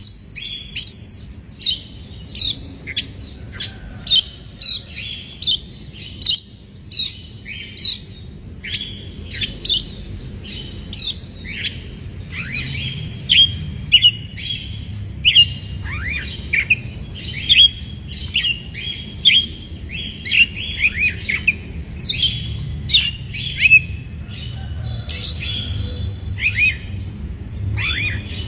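Oriental magpie-robin calling: a fast run of sharp, repeated chirps, about two a second, that turns partway through into a busier mix of varied notes and downward-slurred whistles.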